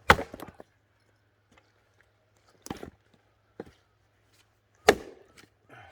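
Axe blows splitting firewood: a sharp, loud strike at the start and another near the end, with a lighter knock and a faint one between them.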